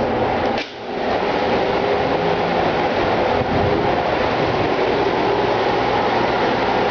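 Ship's engine-room machinery running: a loud, steady drone of diesel engines and auxiliaries with several steady tones in it, dipping briefly just over half a second in.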